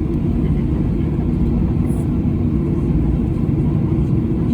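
Airliner engine and airflow noise heard inside the passenger cabin: a steady, loud low rumble with no change in pitch or level.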